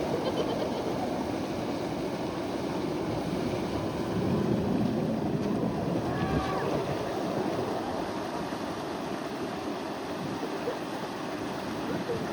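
Steady rush and lapping of river water around a bamboo raft, with some wind on the microphone.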